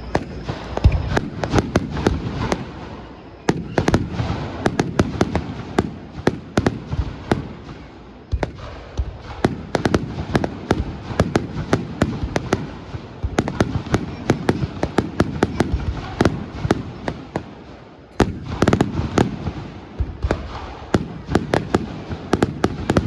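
Fireworks going off in rapid volleys: dense crackling and popping of many small bursts over deep booms. Fresh barrages begin about three and a half, eight and eighteen seconds in.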